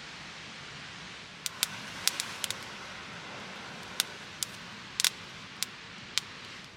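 Wood campfire crackling: irregular sharp pops and snaps over a steady hiss, starting about a second and a half in.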